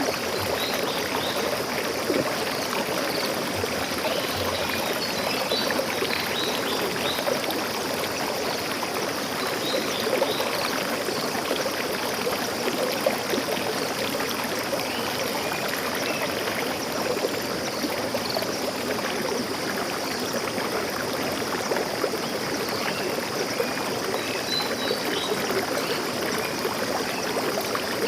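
Steady rushing and gurgling of flowing stream water.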